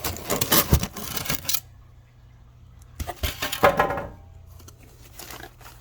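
Packing material in a shipping box being handled and rummaged through: a run of rustling and clicking, a quieter second or so, then another loud burst of rustling and clattering a little past the middle.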